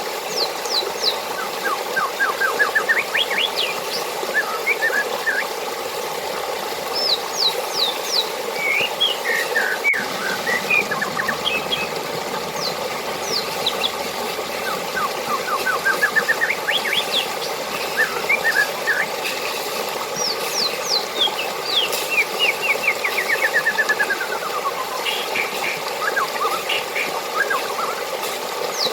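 Steadily running water with birds singing over it: many short chirps and quick trills, several of them rapid series of notes that fall in pitch.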